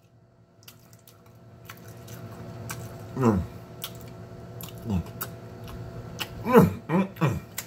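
A man chewing a mouthful of beans and franks, with small wet mouth clicks, humming short falling "mmm"s of enjoyment about three and five seconds in and several more in quick succession near the end. A faint steady hum runs underneath.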